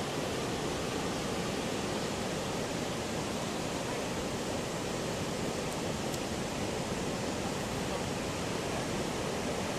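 Big ocean surf breaking without pause, heard as a steady, even rushing hiss.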